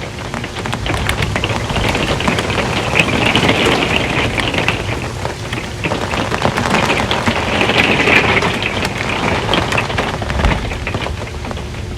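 Rain drumming on an RV's metal roof, a dense patter of drops that swells in intensity twice and eases off toward the end.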